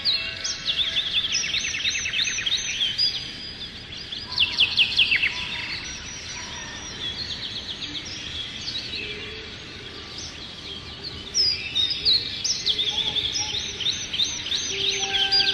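Several songbirds singing in rapid chirps and trills. The calls thin out in the middle and pick up again near the end, over soft ambient music with faint held tones.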